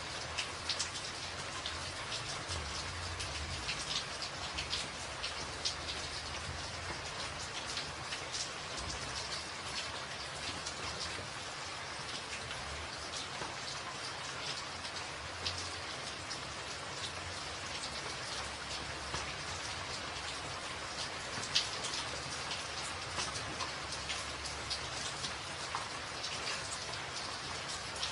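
Steady rain falling on a tin roof: a dense, even hiss of drops with many sharp individual taps on the metal.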